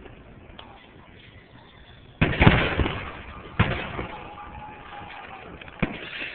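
Fireworks shells bursting: a loud bang about two seconds in, the loudest, followed by three more, each trailing off in a rumble.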